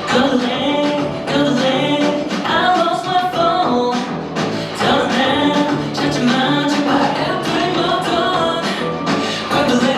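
K-pop dance-pop song playing, with singing over a steady beat.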